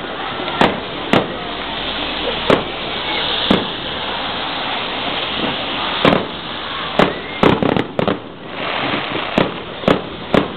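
Fireworks display: about a dozen sharp bangs of shells bursting overhead at irregular intervals, coming closer together in the second half, over a steady background hiss.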